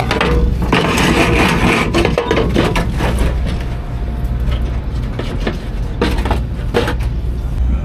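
A steady low rumble, with a clattery stretch about a second in and sharp knocks around two seconds in and twice near the end.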